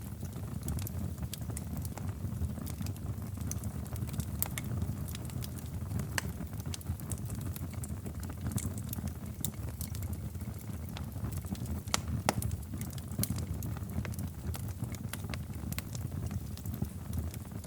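Wood fire crackling in a fireplace: a steady low rumble of flames with frequent irregular sharp pops and snaps, one louder pop about twelve seconds in.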